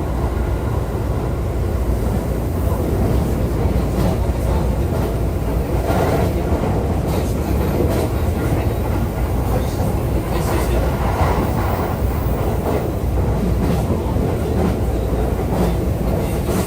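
Interior running sound of a JR East E531 series electric multiple unit travelling at speed: a steady rumble of wheels on rail, with occasional clicks as the wheels pass over rail joints, heard from inside the passenger car.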